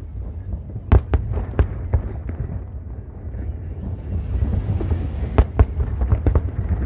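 Aerial fireworks bursting: a quick cluster of sharp bangs about a second in, and two more bangs about five and a half seconds in, followed by smaller crackling pops, over a steady low rumble.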